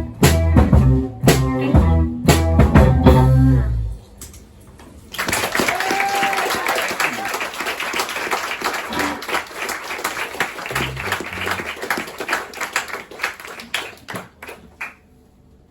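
A rock band with electric guitars, bass and drums plays the last bars of a song and stops about four seconds in. About a second later the audience claps and cheers for roughly ten seconds, dying away near the end.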